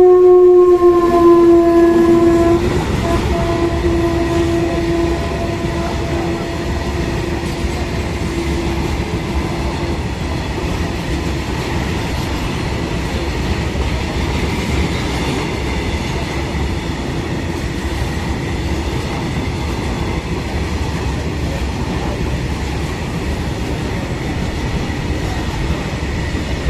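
A WAG-9 electric locomotive's horn sounds loud for the first couple of seconds and then fades away over several seconds, as a loaded BTFLN tank-wagon freight train passes at speed. The wheels rumble and clatter steadily over the track throughout.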